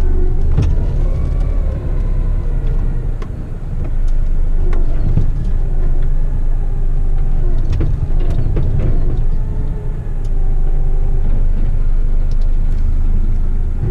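Heavy rigid truck's diesel engine running as the truck moves slowly, its whine drifting up and down in pitch, with several sharp knocks and rattles, the clearest about half a second, five and eight seconds in.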